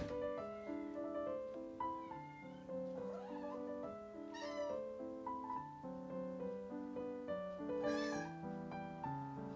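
A cat meows twice, about four and a half and eight seconds in, over background music of steady piano-like notes. A sharp click is heard right at the start.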